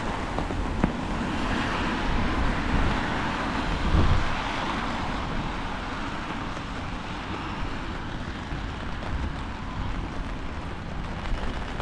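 Wind rushing along a town street: a steady noisy wash with a low rumble. It swells over the first few seconds, then eases.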